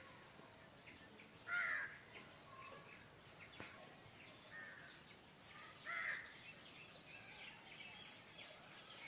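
Birds calling, with a few louder calls about one and a half seconds in and again near six seconds, over a steady high chirring.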